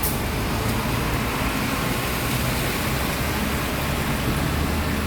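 Mitsubishi Fuso Aero Star city bus's diesel engine running steadily at idle, a constant low rumble with a hiss over it.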